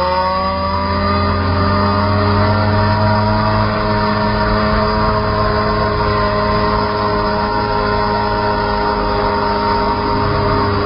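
Motorcycle engine held at steady high revs, its pitch rising slightly in the first second and then holding even.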